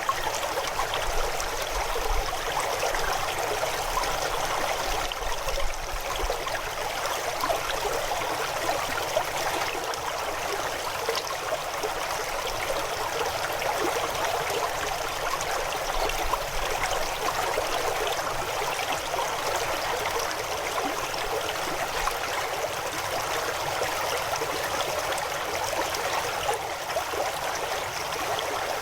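River flowing: a steady rush of running water with many small splashes throughout.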